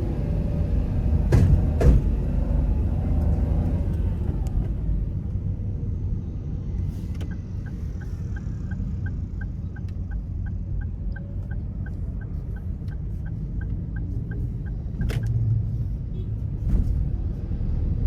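Car cabin with steady engine and road rumble; the engine note drops away after a few seconds as the car slows. A turn-signal indicator ticks evenly, about three ticks a second, for around eight seconds mid-way, and a few sharp knocks come from the car going over bumps.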